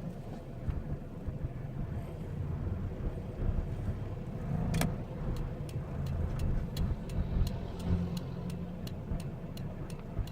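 Cabin rumble of an Isuzu D-Max pickup with a 3.0-litre diesel, driving on a test run after a speed-sensor replacement. About five seconds in there is a sharp click, then a steady run of light ticks, about three a second.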